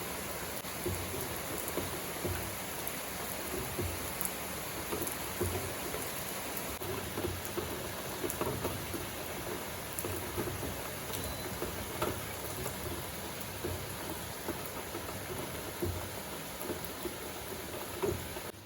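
Steady rain falling, a continuous hiss with scattered small drop hits.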